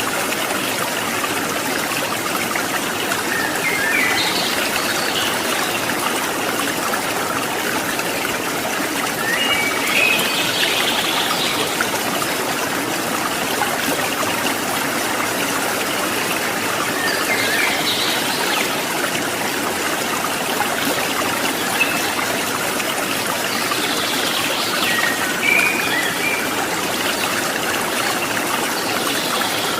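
Steady rush of flowing water from a mountain stream, with a few brief higher-pitched sounds every several seconds.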